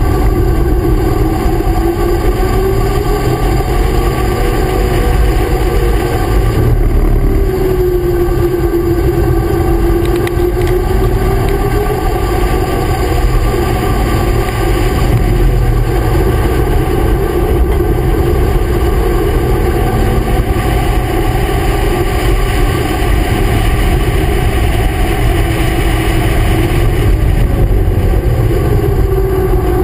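A car's engine at speed on a racetrack lap, its note climbing and falling again every several seconds as the car accelerates out of corners and slows into the next. A heavy rumble of wind and road noise runs under it at the low-mounted camera.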